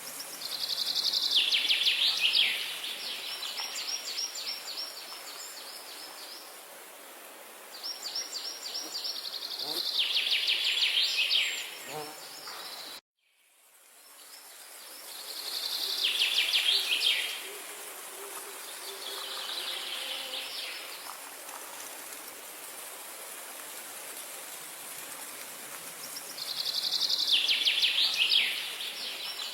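A songbird singing short, fast trilled phrases, each lasting a second or two and repeated every several seconds, over a steady high hiss of outdoor ambience. The sound cuts out abruptly about halfway through and fades back in.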